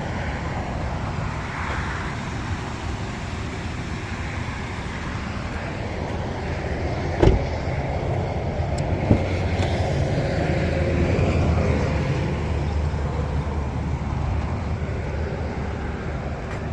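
Steady road traffic noise with a low rumble that swells in the middle, broken by two sharp knocks about seven and nine seconds in.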